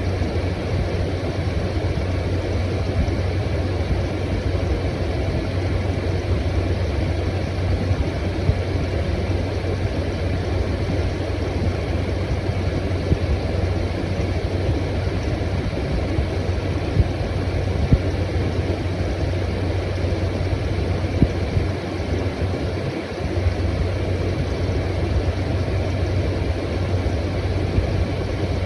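Window air conditioner running: a steady low compressor hum under the even rush of its fan.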